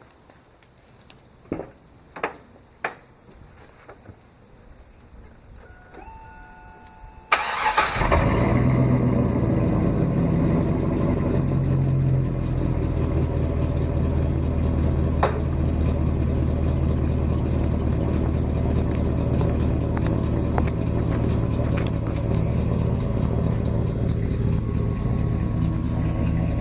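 Warm start of a 2001 Silverado Z71's Vortec 5.3 V8, fitted with a small cam and a turbo glass pack exhaust. A few faint clicks and a brief electronic tone come first. About seven seconds in the starter cranks briefly, the engine catches and it settles into a steady idle through the glass pack.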